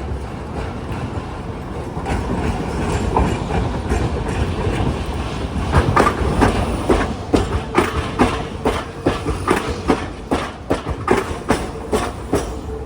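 Hiroshima streetcar running past, its wheels clacking over track joints in a quick run of knocks, about three a second, with a steady tone from about halfway in.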